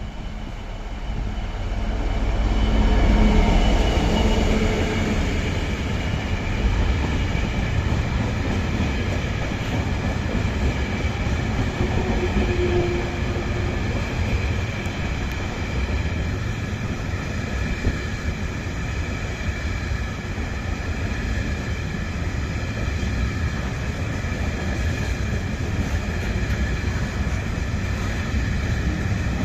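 A train passing on the line, loudest about three seconds in, then a steady rumble of wheels on rail with faint high ringing tones for the rest.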